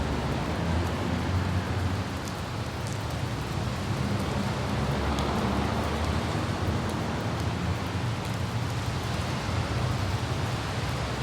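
Steady rain falling on a city street, with the low hum of light traffic beneath it and a few sharper drop ticks.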